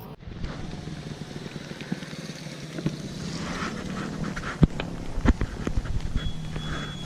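Kawasaki Versys-X motorcycle engine running with a steady low hum under wind rushing on the microphone, with scattered sharp knocks and taps.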